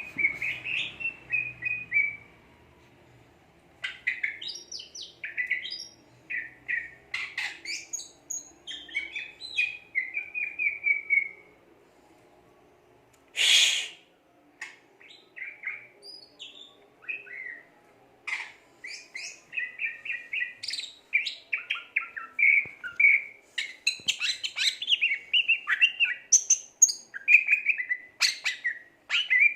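Green leafbird (cucak ijo) singing energetically in rapid, varied phrases of whistles, chirps and trills, broken by short pauses. About halfway through there is one brief loud rush of noise.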